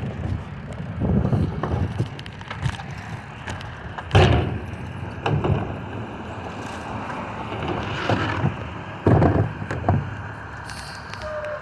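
Recycling truck at work: its engine runs under a series of loud bangs and clatters, the loudest about four and nine seconds in.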